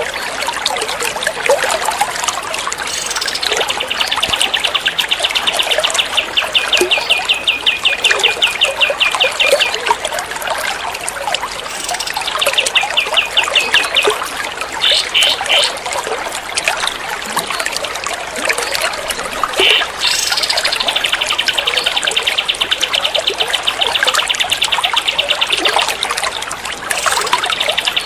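Recorded songbird song in the rapid 'tembak' style: long bouts of a fast trill of sharp, evenly repeated high notes, separated by short gaps, over a steady trickle of running water.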